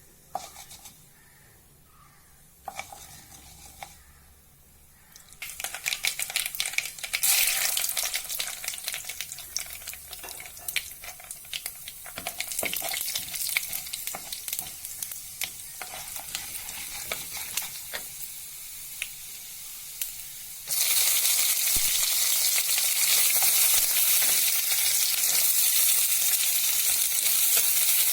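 Food sizzling in a hot pan while being stirred, with scattered clicks of the spoon against the pan. The sizzle starts about five seconds in, and about twenty seconds in it suddenly gets louder and steadier.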